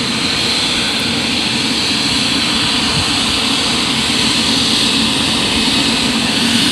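Airliner engines running: a loud, steady rush that holds even throughout.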